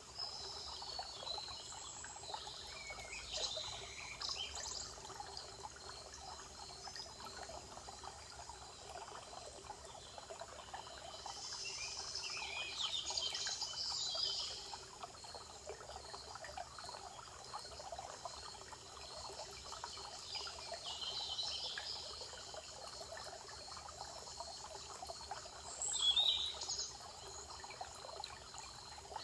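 Several birds singing and chirping in scattered phrases over a steady trickle of running water, with the loudest call a few seconds before the end.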